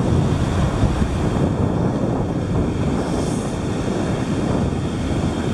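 Wind buffeting the camera's microphone, a steady, loud low rumble that flutters unevenly.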